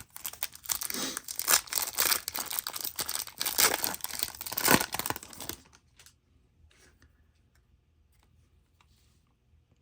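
Foil trading-card pack wrapper being torn open and crinkled, a dense crackling tear for about five seconds, then only a few faint clicks as the cards are handled.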